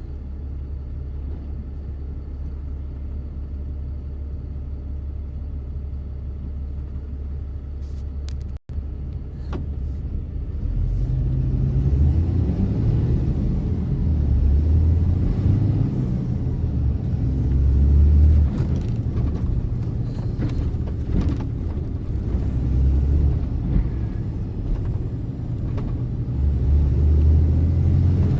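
Truck engine running with a low rumble, steady at first. The sound cuts out for an instant a little over eight seconds in. From about ten seconds in the engine is louder and rises and falls as it pulls and eases off in traffic.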